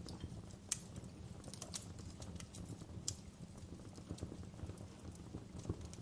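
Wood fire burning in a fireplace: a steady low rumble of the flames with irregular sharp crackles and pops, two louder pops about 0.7 s and 3 s in.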